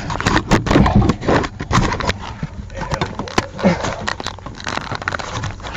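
Irregular clicks, knocks and scraping of hand work on engine bolts: the exhaust-plate bolts being started by hand.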